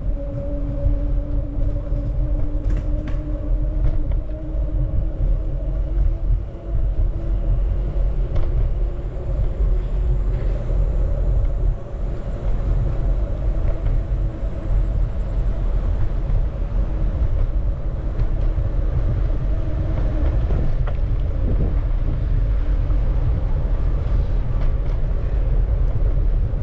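Wind rumbling on the microphone while riding a bicycle, with a steady two-note hum underneath that fades out about three-quarters of the way through.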